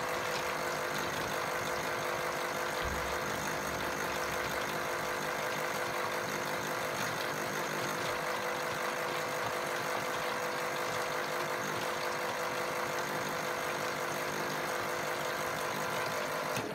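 Europlay Tide Juniors Home battery-powered toy washing machine running its rinse with water in the tub, its small electric motor giving a steady whirring hum. The hum cuts off abruptly at the very end as the cycle stops.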